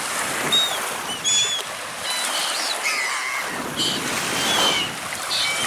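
Baltic Sea waves washing steadily, with birds giving many short, high calls over them.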